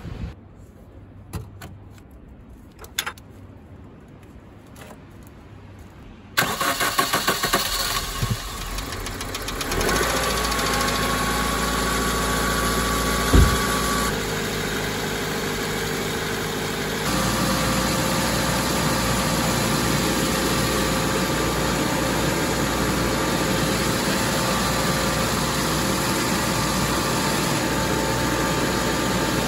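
Nissan Micra K11's twin-cam four-cylinder petrol engine starting about six seconds in, running unevenly for a few seconds, then idling steadily. It is being run to bleed air from the freshly refilled cooling system through a coolant funnel on the radiator neck.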